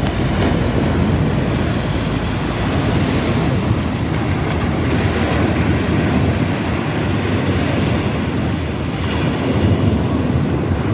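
Sea surf washing in steadily, with wind rumbling on the microphone.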